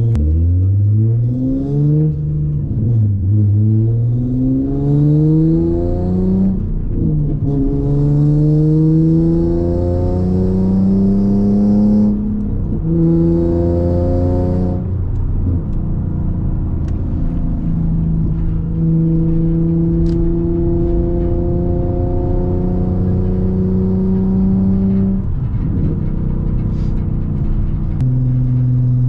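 VQ37VHR V6 through a custom titanium single-exit exhaust with ART cats and titanium Y-pipe, pulling through the gears: the note rises and falls back at each upshift, several times over. It then holds a steady drone at cruise and drops lower near the end as the car eases off.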